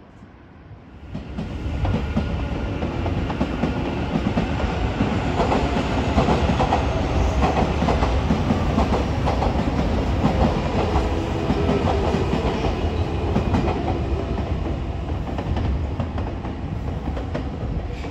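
Nankai electric commuter trains running past on the elevated tracks below, two passing each other: steady rail and wheel noise that swells in about a second in and eases off slightly near the end.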